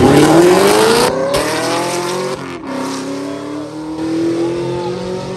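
Race cars accelerating hard at full throttle: the engine note climbs steadily, breaks for an upshift about two and a half seconds in, then climbs again as it fades into the distance.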